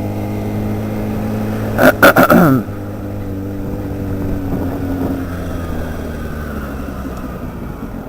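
Motorcycle engine, a Kawasaki Ninja ZX-6R inline-four, running steadily under way, heard from the rider's helmet. A brief loud burst about two seconds in, then the engine note slowly falls as the bike eases off.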